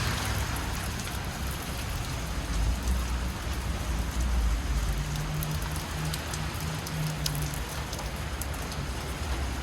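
Steady rain falling on a city street, with scattered drip ticks and a low traffic rumble underneath. A faint engine hum rises about halfway through and fades again.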